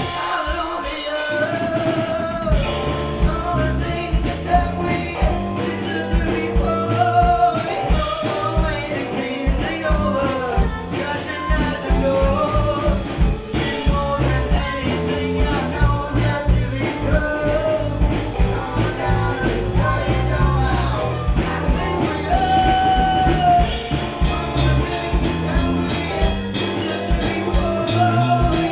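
Gypsy rock band playing live: a sung melody over a steady drum-kit beat and a bass line.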